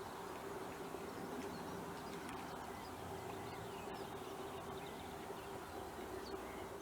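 Wetland outdoor ambience: faint, scattered bird calls over a steady background hiss, with a constant low hum underneath.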